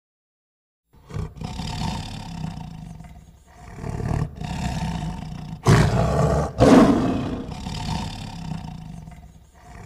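A big cat roaring, several long roars in a row, the loudest about six to seven seconds in.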